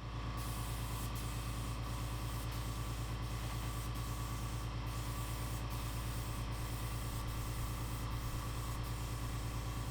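A machine running steadily: a low hum under an even hiss that dips briefly at regular intervals.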